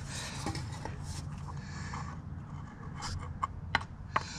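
Several short clicks and knocks as a quart oil bottle and long funnel are handled while the engine is topped up with oil, over a steady low hum.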